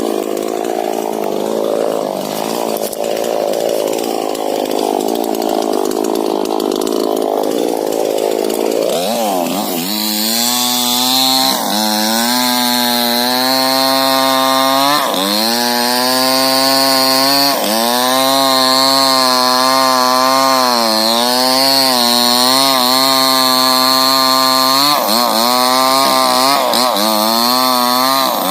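Two-stroke chainsaw running: for about the first nine seconds its sound is low and rough, then it revs up sharply and holds high throttle. Its pitch sags briefly several times as the chain bites into the wood of a rubber tree.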